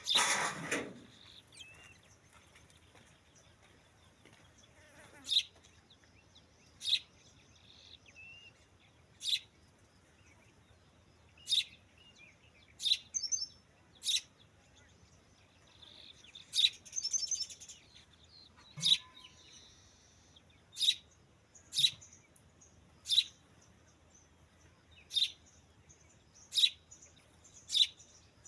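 A bird calling over and over: short, sharp, high chirps every second or two, with a brief trill now and then.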